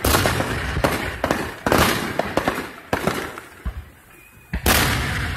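Aerial fireworks bursting in a rapid series of booms with crackling between them; a quieter lull near the end is broken by one large boom.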